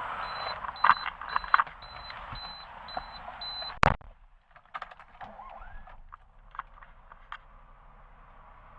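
A car's warning chime beeping rapidly and evenly, about two and a half beeps a second, then a sharp door-shutting thump about four seconds in. The beeping stops with it and things go quieter, leaving a few light clicks.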